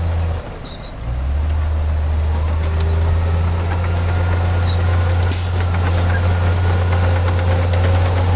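Heavy diesel engine of an earthmoving machine running steadily with a deep drone. It cuts out briefly about half a second in and resumes about a second in.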